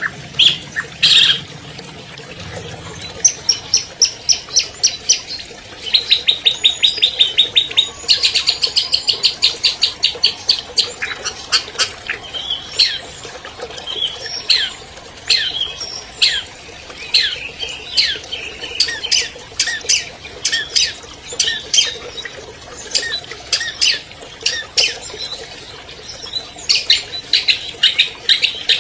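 Long-tailed shrike (cendet) singing a varied, loud song: quick series of high repeated notes, a very fast rattling run, then a string of short slurred whistles and chattering calls.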